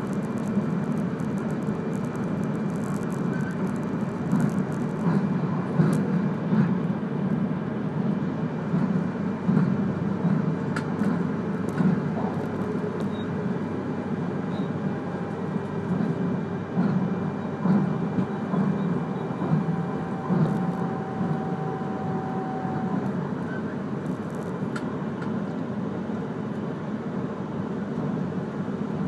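E3-series Akita Shinkansen Komachi train running at speed, a steady low rumble heard inside the passenger cabin, with a few faint clicks along the way.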